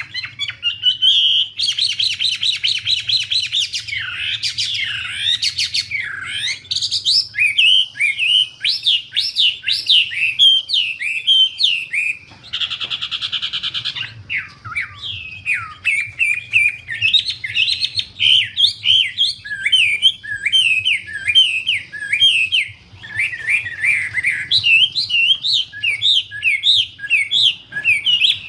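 A wambi songbird singing without a break: rapid, varied whistled phrases that slide up and down, with a harsh buzzy note about halfway through.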